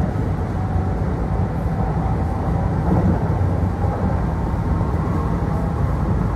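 Kintetsu Osaka Line local train running, heard from inside the passenger car: a steady low rumble of the wheels on the rails with a faint steady whine.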